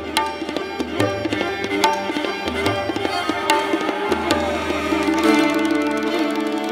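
Live instrumental music: tabla strokes, with the low drum's bending pitch, over bowed strings holding sustained notes.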